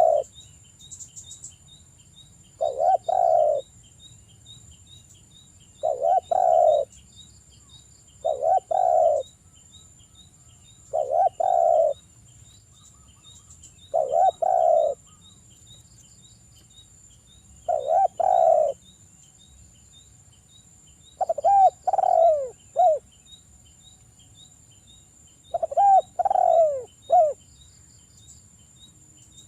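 Derkuku (spotted dove) cooing, a phrase roughly every three seconds, the later phrases broken into three falling notes. A faint fast ticking chirp, like an insect, runs underneath.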